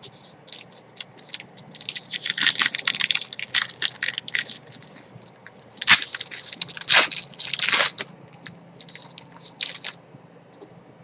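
Trading-card pack wrapper being torn open and crinkled, a run of crackling rustles loudest about two to four seconds in and again around six to eight seconds.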